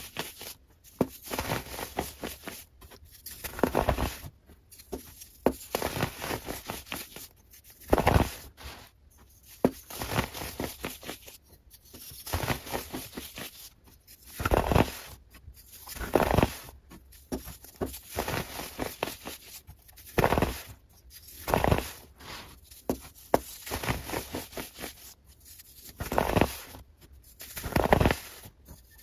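Close-miked ASMR trigger sounds: short crackly, rustling bursts, one every second or two, with quieter gaps between.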